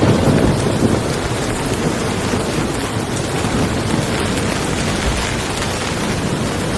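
Steady rain falling, with a low rumble of thunder swelling in the first second.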